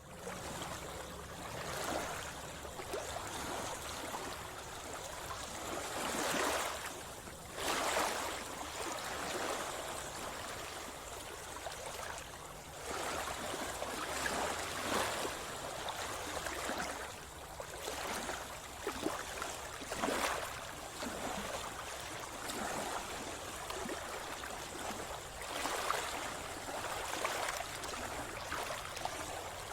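Sea water splashing and gurgling close by, with irregular louder surges every few seconds over a steady wash.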